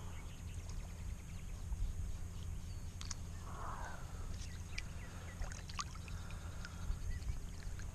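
River water splashing and trickling in small, scattered sounds, with a soft splash about three and a half seconds in, over a steady low rumble.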